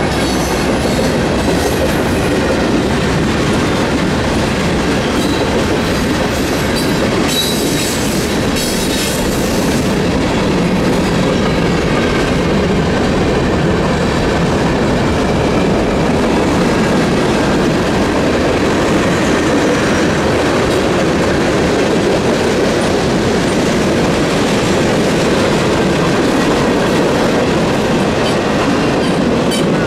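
Freight train cars rolling steadily past at a road crossing, their steel wheels clattering over the rail. The crossing's electronic warning bell is ringing throughout.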